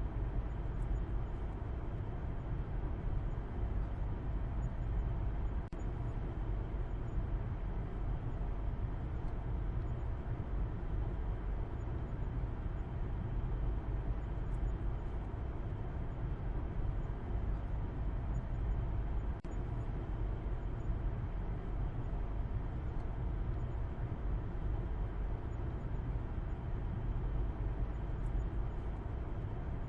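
A car driving along: a steady low rumble of road and engine noise that holds even, with no changes in speed.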